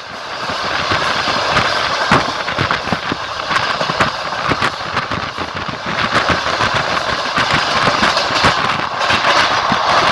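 Passenger train running along the line: a steady rolling rumble with the wheels clacking over rail joints again and again throughout.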